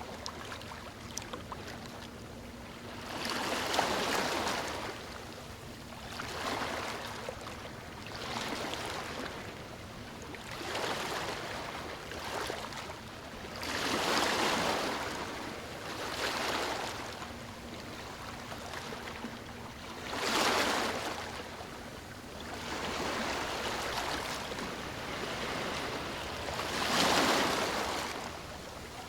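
Sea waves surging in and washing back, one swell every few seconds, some much louder than others.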